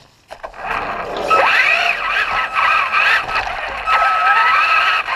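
Traxxas RC truck's motor whining, its pitch sweeping up and down repeatedly as the throttle is worked, with a steady high tone under it. It starts about a third of a second in.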